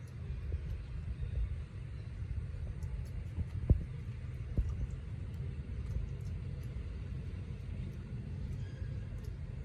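Steady low outdoor rumble with two short thumps a little under a second apart near the middle, the first one the louder.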